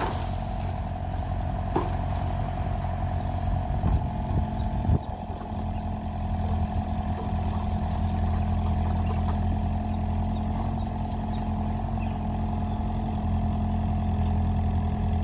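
Kubota excavator's diesel engine running steadily, with a steady high whine over the low drone. A few short knocks come in the first five seconds.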